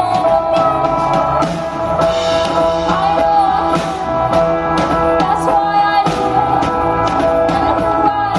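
Live band music with a steady drum beat and sustained chords, with a singing voice rising in and out but no clear words.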